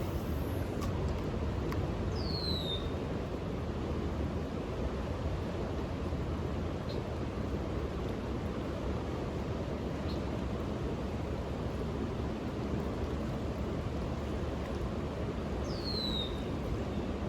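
Steady low outdoor background noise with no clear single source, and two short high falling chirps, about two seconds in and again near the end.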